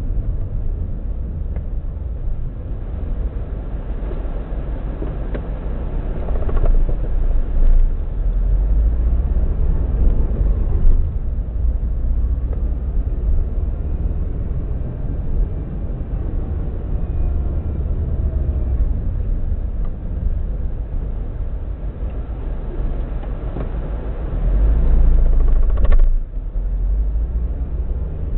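Subaru WRX EJ205 turbocharged flat-four engine running steadily with a misfire on cylinder 3, which a new spark plug has not cured; the owner suspects a cracked valve.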